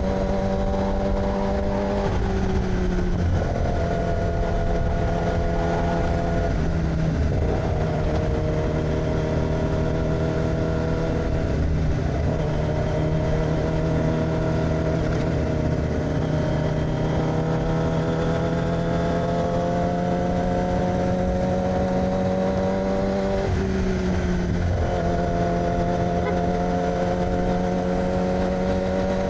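2006 Yamaha R6's inline-four engine running through an AR aftermarket exhaust while riding. The note climbs slowly as it accelerates, with two brief dips in pitch at gear changes: one about two seconds in, the other about three-quarters of the way through.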